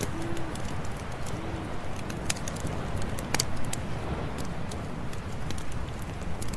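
Campfire crackling: irregular sharp pops and snaps over a steady low noise from the burning fire.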